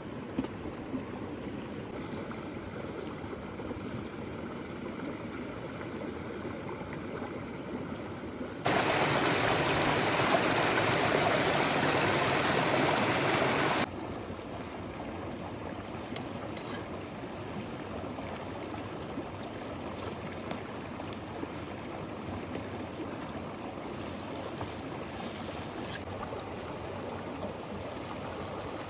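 River water flowing steadily. About nine seconds in, a louder stretch of rushing noise cuts in abruptly, lasts about five seconds, and cuts out just as abruptly.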